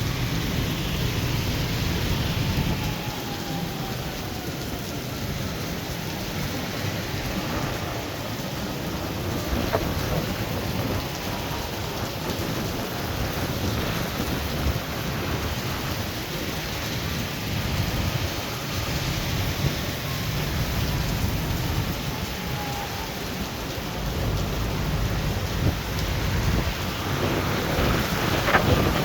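Heavy rain pouring steadily in a thunderstorm, with low rumbling thunder rising and falling underneath. A few sharp cracks come near the end.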